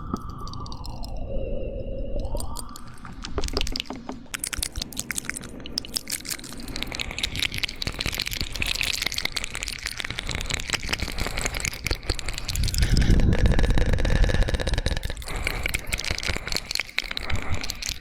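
Fast, wet ASMR mouth sounds close to the microphone: rapid clicks, smacks and tongue pops in a dense stream. A sliding tone comes near the start, and the sound grows louder and deeper about thirteen to fifteen seconds in.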